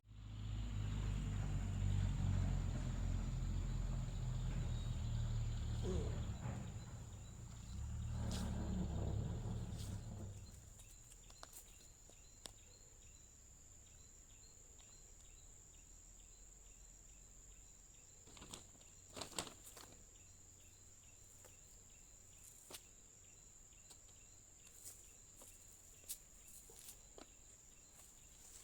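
Insects trilling: a steady, thin, high-pitched drone, with scattered small clicks and rustles. For the first ten seconds or so a low rumbling noise covers it, then the rumbling stops.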